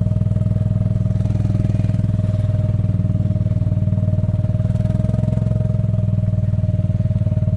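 Gator utility vehicle's engine running steadily, with a constant high whine over the low engine drone.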